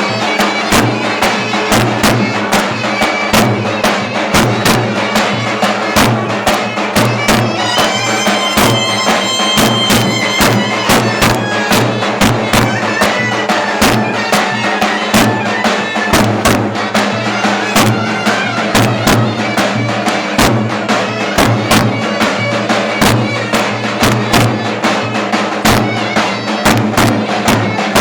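Turkish clarinet playing a lively folk dance melody over a steady davul drum beat, the drum striking in an even rhythm throughout.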